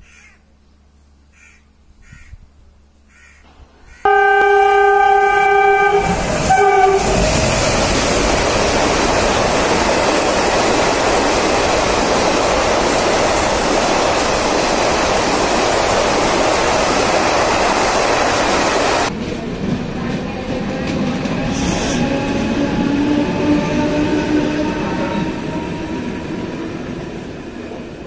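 Mumbai suburban electric local train: a single steady horn blast lasting about two and a half seconds, then the loud rushing and rattling of the train running. Later the running turns quieter and duller, with whining tones that slowly slide in pitch.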